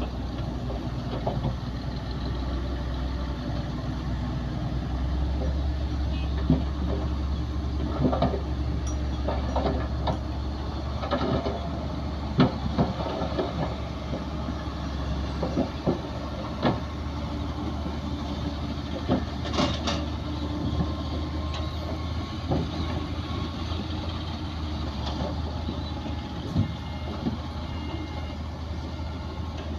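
Heavy diesel earthmoving machinery runs steadily with a low rumble, and irregular sharp metallic clanks and knocks come through every second or two.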